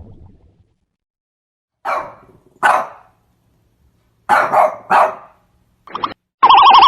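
A dog barking, about five short barks with pauses between them. Near the end a loud warbling tone starts.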